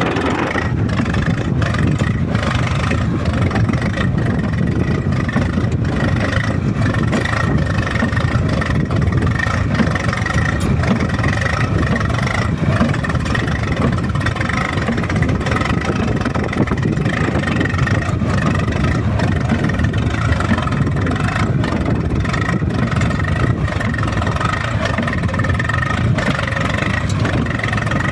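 Swaraj 735 FE tractor's three-cylinder diesel engine running steadily under way, a continuous low rumble with a faint steady high whine on top.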